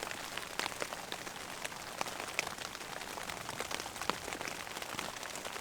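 Heavy rain falling on a tent, with a dense run of individual drops ticking sharply against the fabric.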